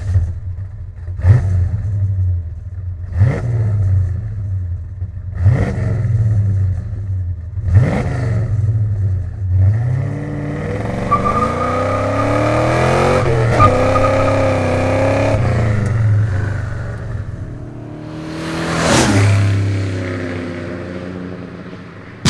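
1967 Pontiac GTO's stroker V8 exhaust through prototype Pypes Turbo Pro stainless mufflers: four quick rev blips from idle, then several seconds held at higher revs, and one more rise and fall near the end. A mellow, muffled performance exhaust note without drone.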